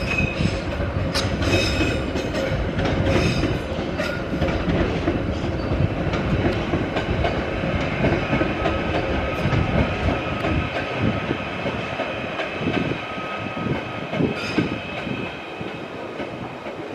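Merseyrail Class 777 electric multiple unit running along the platform road, its wheels clicking over the track in the first few seconds, then a steady rumble with a high whine in the second half.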